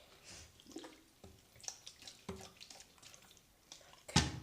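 Clear slime being mixed after boric acid activator has been added: a string of short, wet, sticky sounds, the loudest about four seconds in.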